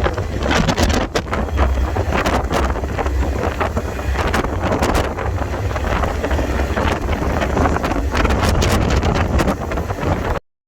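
Wind buffeting the microphone over a heavy, steady low rumble, with scattered sharp knocks, as when riding a moving freight train. It cuts off suddenly near the end.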